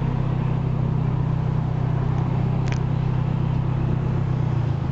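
Steady low drone of a car driving, heard from inside the cabin: engine and road noise at an even speed.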